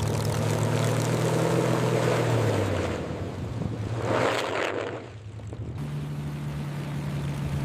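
P-51 Mustang's Merlin V12 engine running on the runway with a steady propeller drone. Its note drops slightly about two and a half seconds in, swells briefly around four seconds, dips, then settles back to a steady drone.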